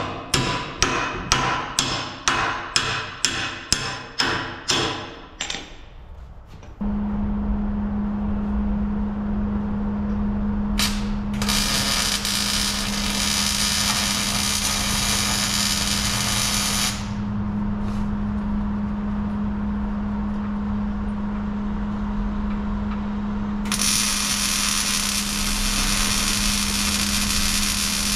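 Hammer blows, about two a second, driving a plow-frame mounting pin through its tube, stopping after about five seconds. A steady low hum follows, with two stretches of hiss of about five seconds each.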